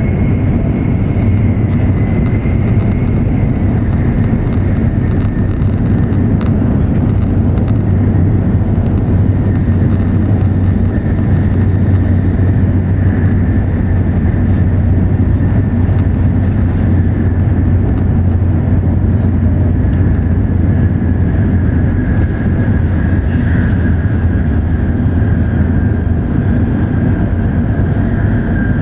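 Steady running noise of an E7 series Shinkansen at speed, heard from inside the train: a loud low rumble with a faint high tone that drifts slowly down in pitch.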